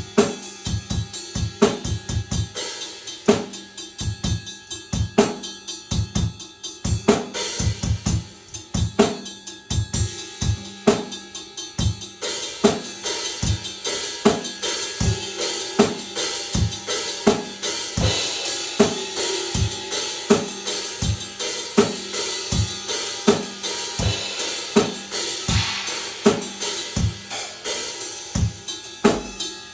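A drum kit being played: kick drum and snare hits with hi-hat and cymbals, the cymbals ringing fuller from about halfway through.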